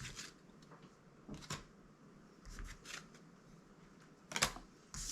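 Magic: The Gathering trading cards being handled and flipped one over another: a handful of short, soft card swishes and flicks, the loudest about four seconds in.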